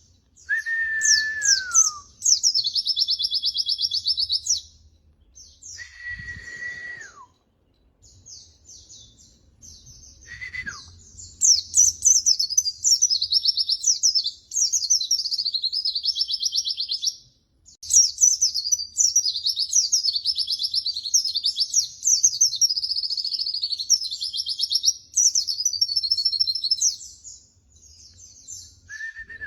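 White-eye (pleci) singing: long, rapid, very high-pitched twittering phrases with brief pauses, now and then joined by a lower whistle that slides downward.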